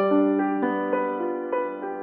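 Background music: a gentle solo piano playing single notes over a sustained low tone, a new note about every half second.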